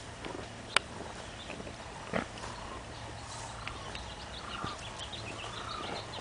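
Outdoor ambience with small birds chirping repeatedly over a steady background hiss. A sharp click comes about a second in and a duller knock about two seconds in.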